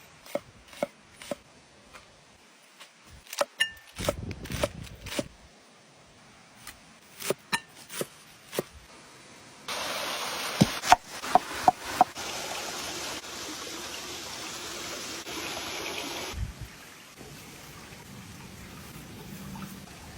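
Cooking handling sounds: scattered knocks and taps, then a steady hiss with a few knocks over it for about seven seconds that starts and stops abruptly.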